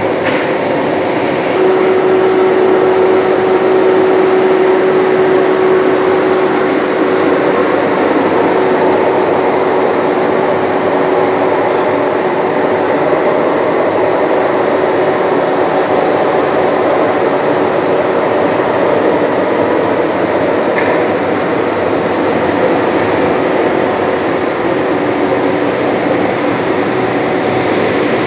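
Double-sided wood planer running: a loud, steady machine noise with a constant whine, stepping up in level about a second and a half in.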